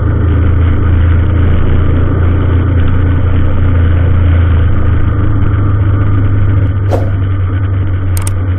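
Steady low drone of a vehicle engine running in road traffic, with a couple of brief clicks near the end.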